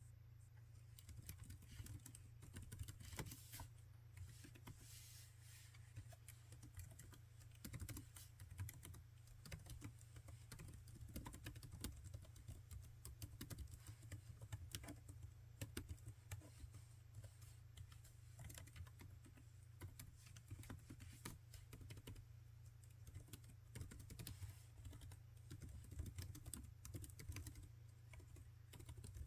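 Laptop keyboard being typed on continuously, a faint run of irregular key clicks that starts about a second in, over a steady low hum.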